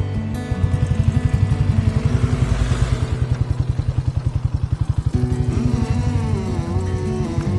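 Motorcycle engine running with an even, fast throbbing beat for about four and a half seconds, then fading out, over background music.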